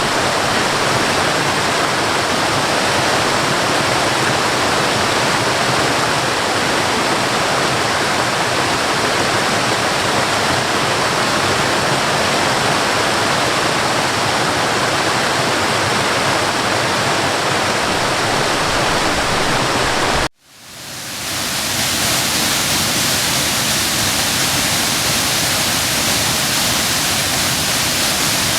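Waterfall rushing, a steady, loud roar of falling water. About two-thirds of the way through it cuts out abruptly, and after a brief gap a brighter, hissier rush of water fades in.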